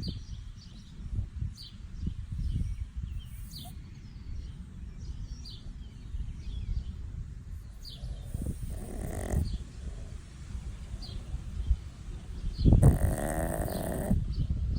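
A small Chihuahua snoring in its sleep, with two louder snores about eight seconds in and again near the end. Birds chirp faintly in the background.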